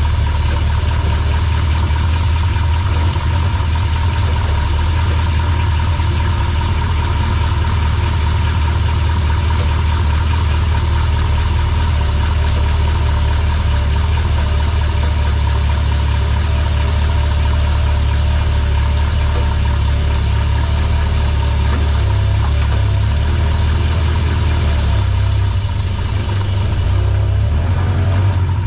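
A GMC/Chevrolet 6.0 L V8 truck engine running steadily, a deep constant drone with a thin steady whine above it. It eases off slightly near the end.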